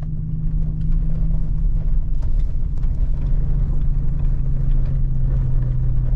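A vehicle's engine and road noise, a steady low drone that drops slightly in pitch about three seconds in.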